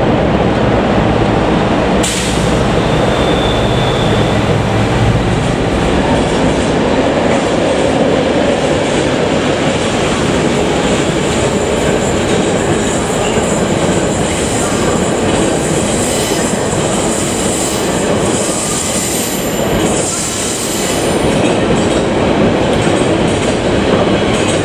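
A diesel-hauled engineering train passing close by, its loaded open wagons and flat wagons of track material rolling over the rails with a steady heavy rumble and clatter. The low-pitched locomotive sound is strongest in the first few seconds, and there are brief wheel squeals, one near the start and one high one towards the end.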